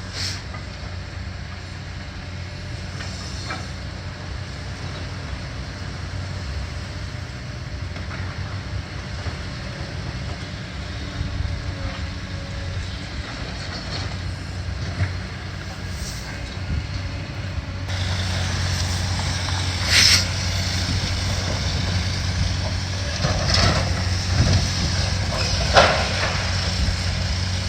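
Heavy diesel demolition machinery running with a steady low hum, growing louder about two thirds in, with a few short sharp hissing or scraping noises near the end.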